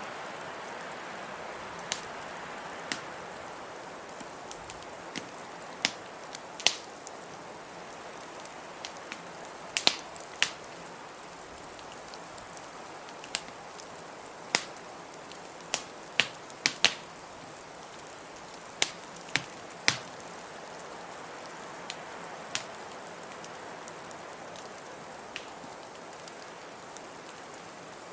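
Wood fire crackling, with sharp irregular pops, over a steady hiss of blizzard wind.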